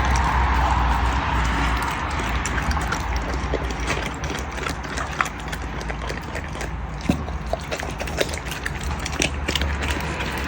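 A black Canadian wolf chewing and crunching its food: irregular wet clicks and sharp cracks, a few a second, over a steady low rumble.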